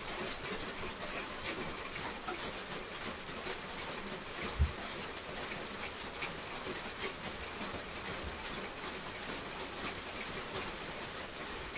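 Heavy rain falling, a steady hiss dense with the fine ticks of drops pattering on a hard surface, with a single dull thump about halfway through.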